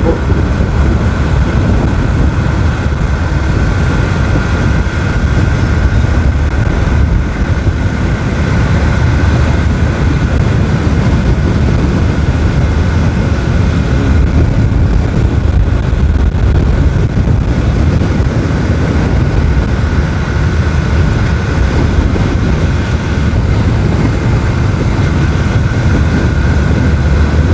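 Motorcycle cruising steadily on the road, heard mostly as heavy wind rushing over a phone microphone set in a handlebar mount, with a thin steady whine above it.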